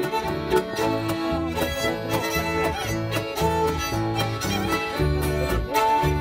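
A small band playing a song: a fiddle-like melody with wavering, sliding pitch over a steady, rhythmic bass line and string accompaniment.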